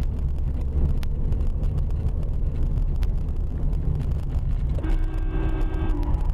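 Steady low rumble of a car's engine and tyres on the road, heard from inside the vehicle. Near the end, a steady pitched tone sounds for about a second.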